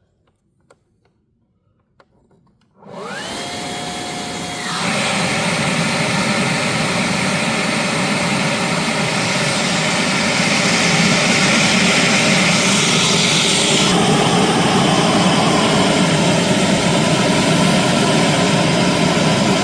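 An electric air blower switches on about three seconds in, its whine rising quickly to a steady pitch. About two seconds later it steps up louder and runs on as a steady rush of blown air, forcing air into a charcoal forge.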